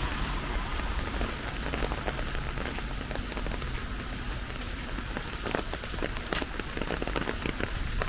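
Steady rain falling, with many separate drops tapping close by, over a low rumble.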